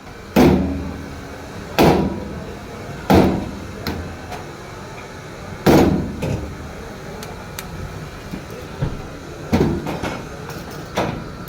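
Hammer blows on metal as a new bearing is driven into a car alternator: about six heavy strikes at irregular intervals, with a few lighter taps between them.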